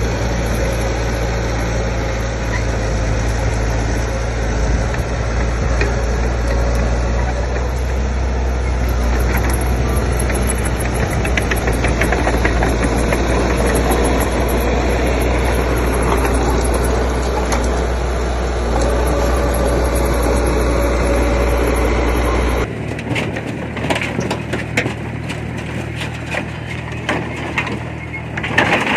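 Diesel engine of heavy earthmoving machinery running steadily with a deep rumble. About three-quarters of the way through the sound changes abruptly: the rumble falls away and a run of cracks and crunches takes over, like soil, rock or branches being crushed.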